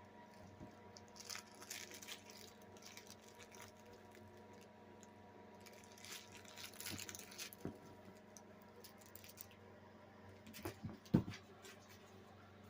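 A puppy playing on a floor: faint scuffling, patter and rustling, with a few soft knocks and one louder thump about eleven seconds in.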